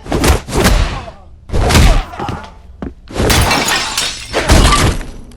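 Fight sound effects: a run of hard hits and crashes with things breaking and shattering. The longest crash starts about three seconds in and trails off in a spray of breaking debris.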